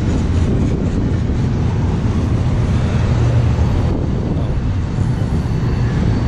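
Double-stack intermodal freight train rolling past, a steady low rumble of loaded container well cars on the rails, with wind buffeting the microphone.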